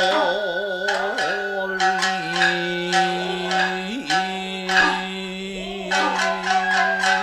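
Nagauta music: a singer holds long, slowly wavering notes, stepping down and back up in pitch, over sharp shamisen plucks.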